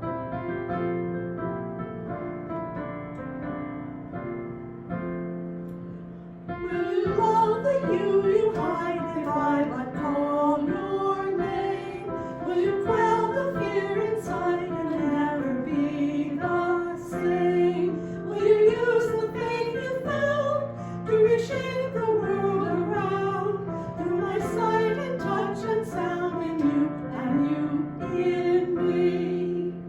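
Piano playing slow, steady chords, joined about six and a half seconds in by a voice singing a melody over the piano accompaniment.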